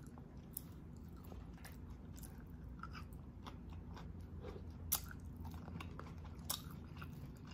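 Close-miked chewing of a mouthful of vegetables and meat, with soft wet mouth sounds and a few sharp crisp crunches or smacks, the loudest about five seconds in.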